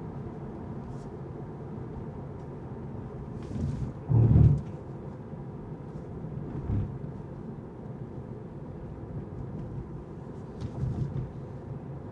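Steady low road rumble of a car driving, with one loud low thump about four seconds in and two smaller ones later.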